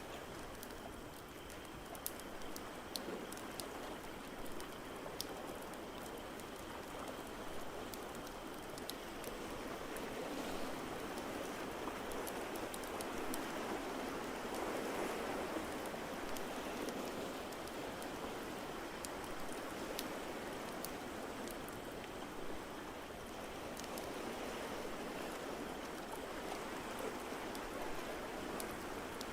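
Ocean surf washing in a steady hiss that swells and eases around the middle, with scattered sharp pops of a crackling wood fire over it.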